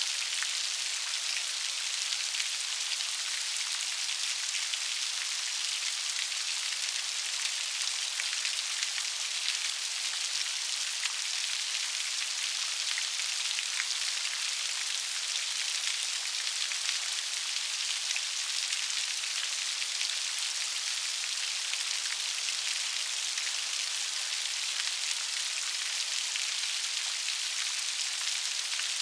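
Steady rain falling, a dense even patter of raindrops with fine crisp ticks and little low rumble.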